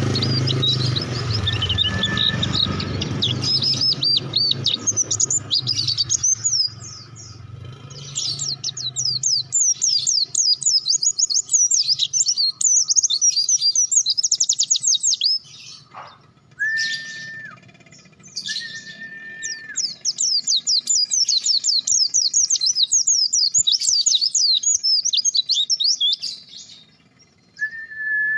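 A pleci (white-eye) songbird singing loudly in long runs of fast, high twittering, broken by short pauses. A few short, level whistled notes, lower in pitch, come in around the middle and near the end.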